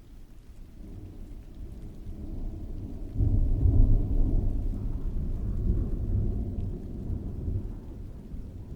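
A roll of thunder over steady rain: the low rumble builds from about a second in, cracks up sharply at about three seconds and then rolls away slowly.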